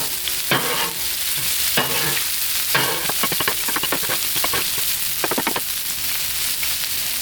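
Cubed pork loin sizzling on a hot Blackstone flat-top griddle, with repeated scrapes and clicks of a spatula on the steel as the pieces are stirred, coming in quick runs about three seconds in and again about five seconds in.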